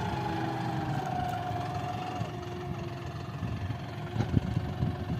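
John Deere 5405 tractor's common-rail diesel engine running steadily, its note easing down a little over the first couple of seconds, with a few sharp knocks near the end.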